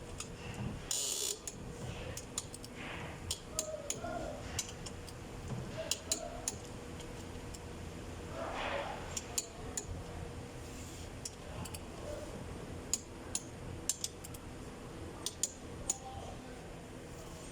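Metal tools and engine parts being handled during engine assembly: scattered sharp clicks, taps and clinks, with a steady faint hum underneath.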